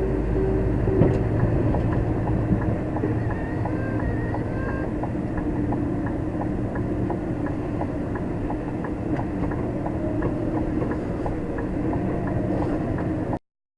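Truck engine running with a steady low drone, a regular light ticking over it, and a few brief high squeaks early on; the sound cuts off suddenly near the end.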